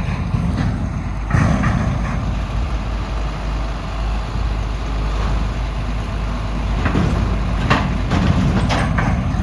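Heavy vehicle engine running steadily with a deep rumble, with a few sharp knocks and rattles, one a little over a second in and several more near the end.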